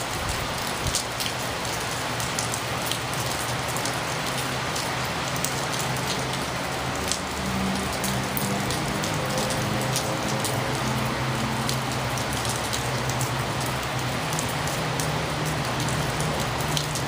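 Heavy rain pouring down, a dense steady hiss with scattered sharp drip ticks. From about seven seconds in, a low steady hum joins underneath.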